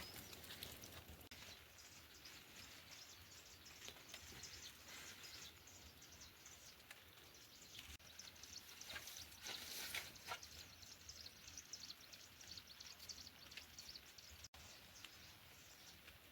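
Faint outdoor ambience: a light hiss with many small scattered ticks, denser about nine to ten seconds in, and a brief break in the sound near the end.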